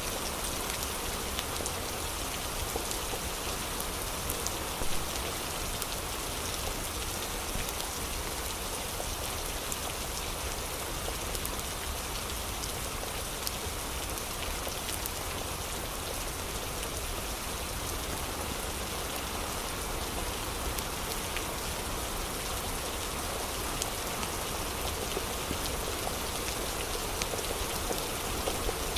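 Steady rain falling: an even hiss with individual drops ticking here and there, and one slightly louder drop about five seconds in.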